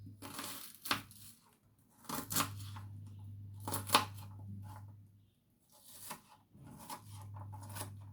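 Knife slicing thin through an onion: a handful of crisp cuts at irregular intervals.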